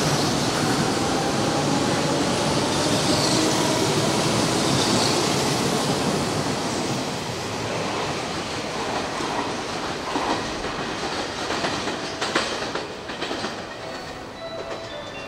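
Hanshin electric train running along the platform and slowing, wheels clattering over the rail joints and a motor whine falling slowly in pitch. The running noise fades through the second half, with short brake squeals and a sharp knock near the end as it draws to a stop.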